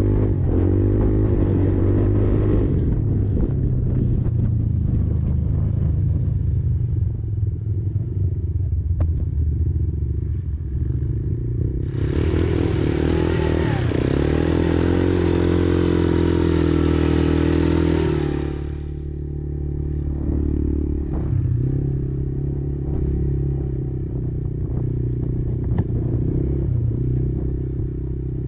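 Quad's engine running under varying throttle, its pitch rising and falling, with a louder, harsher stretch of about six seconds halfway through before it settles to a lower, steadier note.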